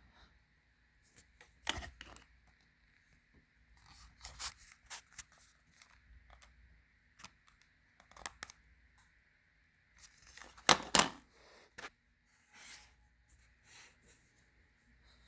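Irregular clicks and rustling handling noises, loudest about two seconds in and again about eleven seconds in, over a faint steady hum.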